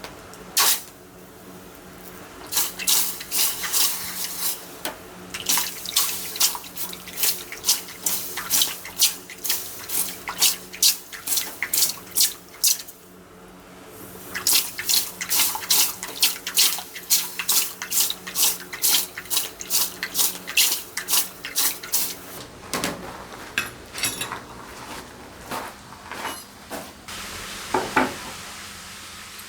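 Rhythmic scraping or scrubbing strokes, about two a second, in two long runs with a short pause between, then a few scattered strokes near the end.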